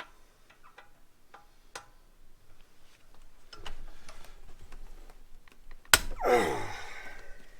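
Light clicks and scuffs of metal hand tools working on the pump, then a sharp metallic clank about six seconds in, ringing on with a falling tone for about a second.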